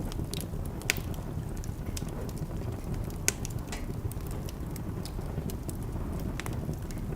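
Wood fire in a fireplace crackling over a steady low rumble, with scattered small clicks and two sharper pops, about a second in and a little after three seconds.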